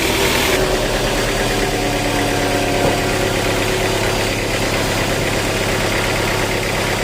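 Engine idling steadily with an even low pulse; a hissing noise over it drops away about half a second in.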